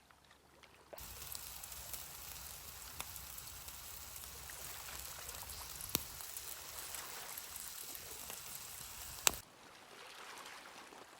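Sausages sizzling on a barbecue, fat dripping onto the hot coals and crackling, with two sharp pops. The sizzle starts about a second in and cuts off about two seconds before the end.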